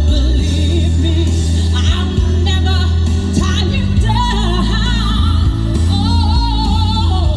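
Amplified live pop ballad: a woman's voice singing long held notes with vibrato over a band backing with heavy bass.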